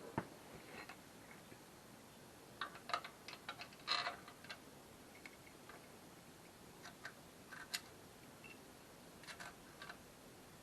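Irregular light clicks and taps of small hard parts being handled, the loudest cluster a little before halfway.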